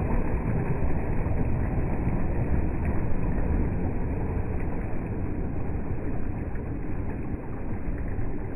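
Waves on the Padma river: a steady, low rushing water noise with no breaks.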